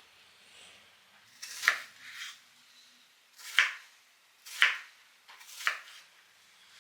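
Knife cutting on a cutting board: four separate cuts, roughly a second apart, each ending in a short knock.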